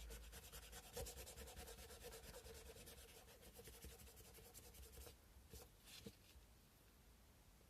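Sandpaper rubbed by hand over a carved cow-bone fish hook: faint, quick back-and-forth rasping strokes that ease off after about five seconds, followed by a couple of light clicks.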